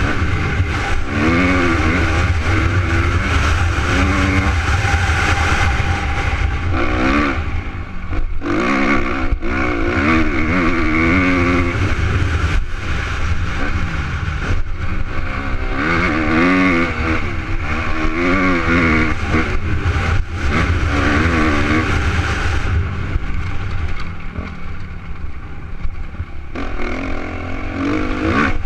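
Suzuki RM250 two-stroke motocross bike running hard, its engine note climbing in pitch again and again with short drops between, as it revs out and shifts or rolls off.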